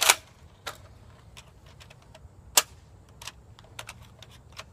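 Sharp clicks and snaps of a modded Nerf Crossbolt blaster being handled, primed and fired, with two loud snaps, one at the start and one about two and a half seconds in, and lighter clicks between them.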